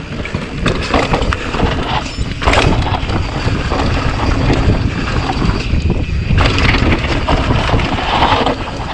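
Mountain bike riding down a rocky dirt downhill trail: wind buffeting the helmet camera's microphone, with the tyres running over dirt and rock and the bike rattling and knocking over the bumps.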